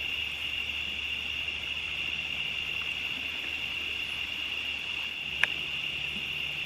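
Steady insect chorus, a continuous high-pitched trill, with one short click about five seconds in.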